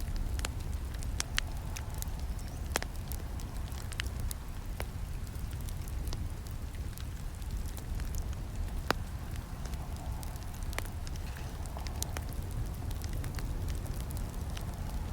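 Campfire burning: a steady low rumble of flames with irregular crackles and sharp pops, the loudest snap about nine seconds in.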